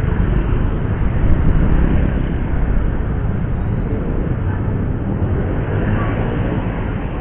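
Steady low rumble of a motorcycle ride in traffic, with road and wind noise on the rider's microphone and the engine underneath.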